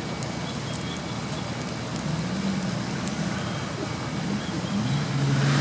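Off-road competition vehicle's engine running over a steady noisy background, growing louder near the end.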